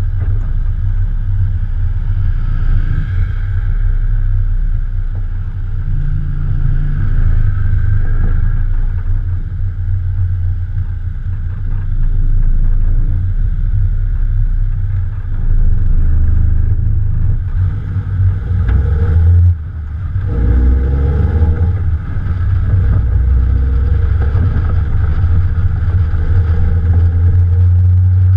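Morgan Plus 4's Ford 2.0-litre four-cylinder engine running steadily while the car is driven, picked up by a camera on the bonnet. About two-thirds of the way through, the engine note cuts off briefly and then rises again.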